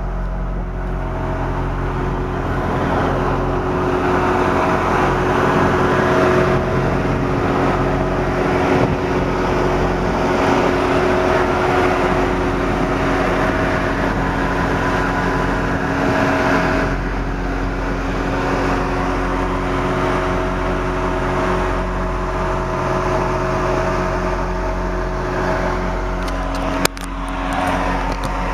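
A vehicle engine idling steadily: a constant low drone of several steady tones under an even hiss. A single sharp click comes near the end.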